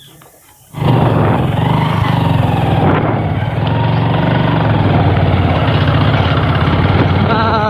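Hero Glamour motorcycle engine running steadily, cutting in abruptly about a second in after a short quiet spell.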